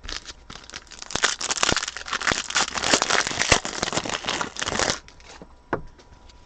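Foil wrapper of a football trading-card pack crinkling as it is torn open and crumpled, a dense crackle for about five seconds, then a few soft clicks.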